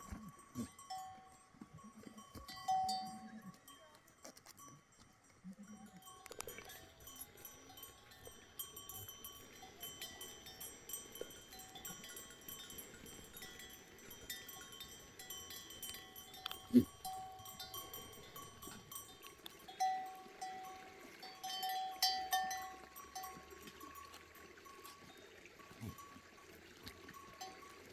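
Bells on grazing livestock ringing and clanking on and off, with one sharp knock about seventeen seconds in.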